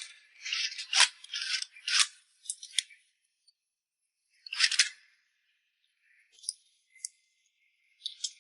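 A run of short, crisp snipping and scraping noises, several close together in the first three seconds and a louder one near five seconds in, then a few light ticks near the end.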